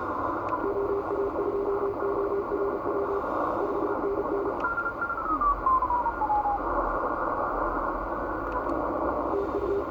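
Shortwave receiver audio on the 17 m band: a Morse code (CW) signal keyed on and off as dits and dahs over steady band hiss, heard through a narrow receiver filter. About five seconds in, a second steady tone slides downward in pitch, and a short burst of Morse returns near the end.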